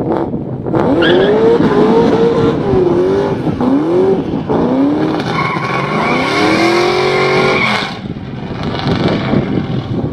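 V8 car engine at full throttle, its revs climbing and dropping back at several gear changes, then one long pull in a higher gear with a high steady whine over it. The revs fall away about eight seconds in as the run ends.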